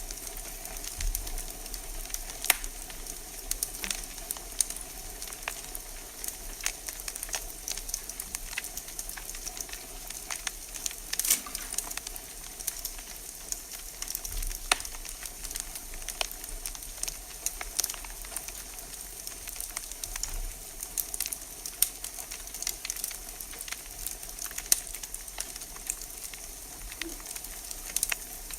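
Wood fire in a fireplace crackling, with irregular sharp pops over a steady hiss.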